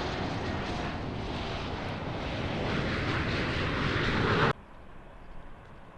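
Airliner engine noise growing louder as the aircraft passes close, then cutting off suddenly about four and a half seconds in.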